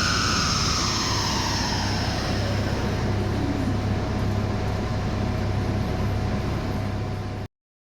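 Renault Clio 4 RS 200's turbocharged 1.6-litre four-cylinder winding down after a run: a high whine falls in pitch over the first three seconds, leaving a steady low engine hum. The sound cuts off suddenly near the end.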